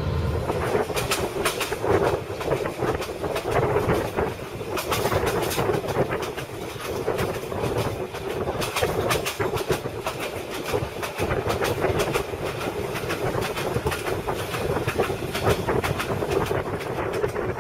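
Passenger train running along the track, its wheels clicking and clacking over the rail joints again and again above a steady running drone.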